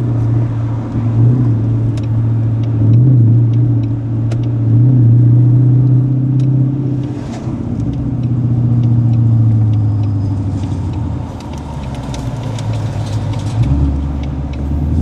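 Ford Mustang GT's 5.0 V8 running through a newly fitted MBRP full exhaust, its pitch rising briefly in a few light revs near the start, then settling and dipping lower near the end.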